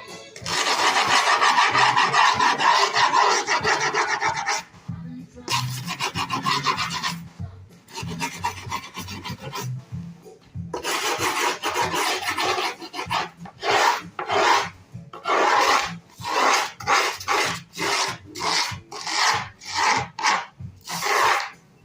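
Skateboard grip tape being rasped along the deck's edge with a tool: one long continuous scrape at first, then a run of separate back-and-forth strokes, about one and a half a second, near the end. This is the edge of fresh grip tape being worked before the excess is trimmed.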